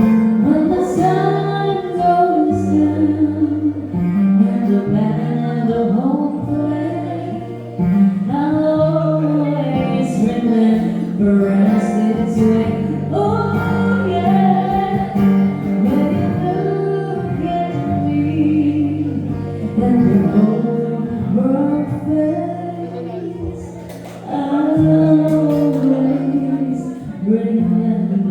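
A woman singing a song live with acoustic guitar accompaniment, her melody moving over held chords.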